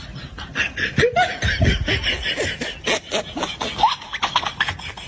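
Laughter: rapid, short pulses of giggling and snickering, with a few higher-pitched vocal rises in the middle.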